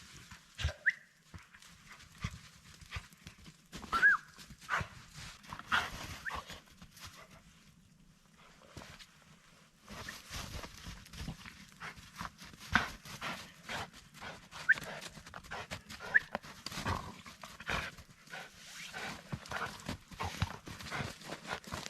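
A dog giving a few short, high whines among many quick knocks and rustles, with a quieter spell for about two seconds around eight seconds in.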